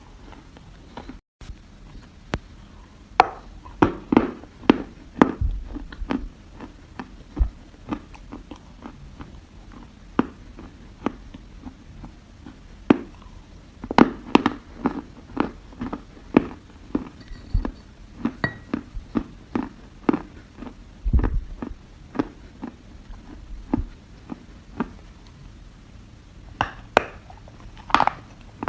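Close-miked biting and chewing of dry soil: many sharp, irregular crunches as chunks of earth are bitten and ground between the teeth.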